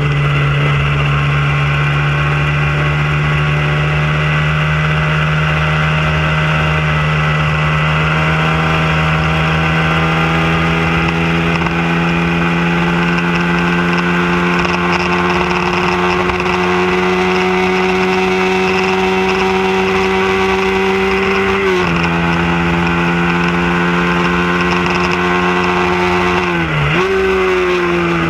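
Hyosung sport bike's V-twin engine held at high revs under full throttle, its pitch climbing slowly along a straight. The pitch drops briefly twice, the second time deeper and bouncing back, then falls near the end as the bike slows for a corner.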